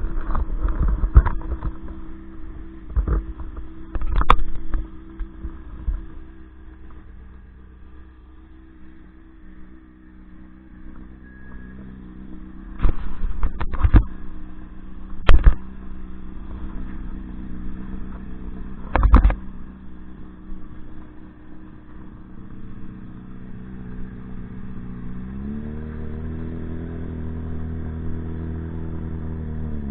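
Motorcycle engine running at low speed, with loud knocks and clatter every so often. About 25 seconds in, the engine note rises and holds higher as the bike accelerates.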